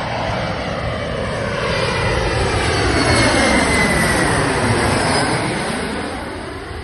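Embraer E170 regional jet passing low overhead on its landing approach. Its engine noise swells to a peak around the middle and then fades, with a whine that slides down in pitch as it goes over.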